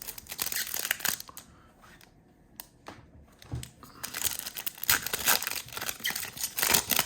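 Trading card pack wrapper being torn open and crinkled by hand: a bout of crackling at the start, a quieter lull, then a longer stretch of crinkling from about four seconds in.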